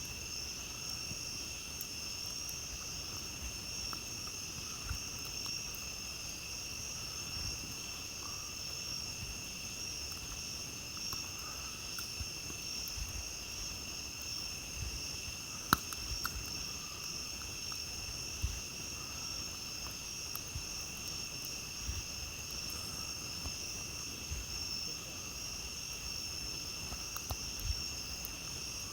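A steady chorus of crickets and other night insects, with a campfire giving scattered small crackles and one sharper pop about sixteen seconds in.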